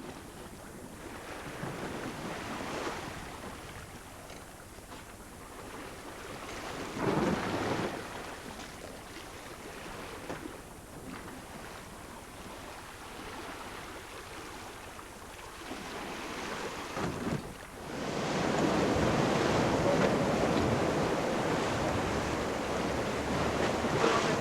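Sea water rushing and washing along a sailing yacht's hull, with wind buffeting the microphone; it swells twice and grows louder from about three-quarters of the way in.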